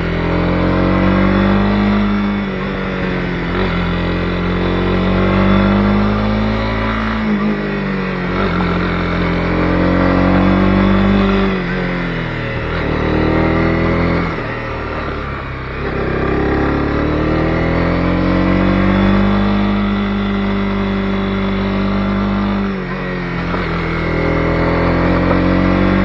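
Honda CB250R's single-cylinder four-stroke engine running under way, its pitch climbing and dropping several times as the throttle is worked and gears are changed, with brief dips in between.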